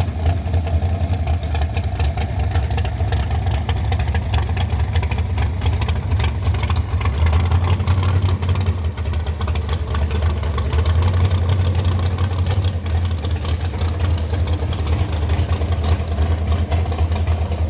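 A vehicle engine running steadily, with a constant low rumble and no marked revving.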